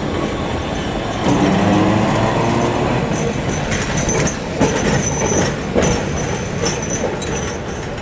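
Heritage electric tram running: the traction motor whine rises about a second in as it picks up speed, then the wheels click over the rails with a thin high squeal on and off.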